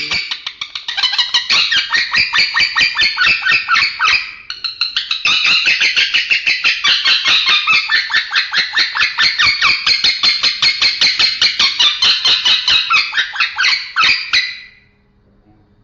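Male lovebird chattering in a long, fast run of harsh, rasping notes, many to the second. There is a brief break about four seconds in, and the run stops near the end.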